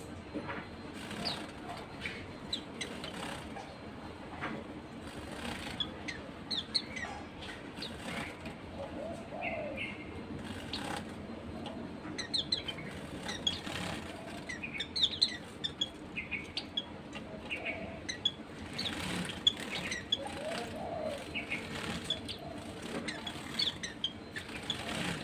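Pet white-eyes chirping with many short, high calls, mixed with quick flutters of their wings, busier in the second half, over a faint steady low hum.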